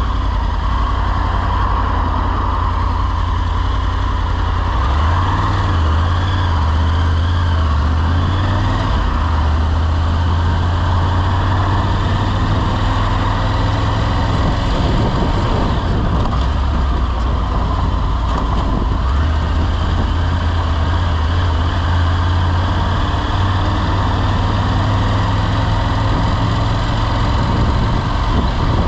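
Motorcycle engine running steadily, its pitch rising and falling several times as the engine speed changes, heard from on the bike.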